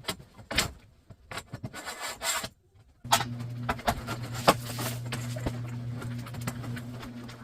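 Garage door hardware rubbing and clicking. After a short gap about three seconds in, a steady low hum starts, with scattered clicks and knocks over it.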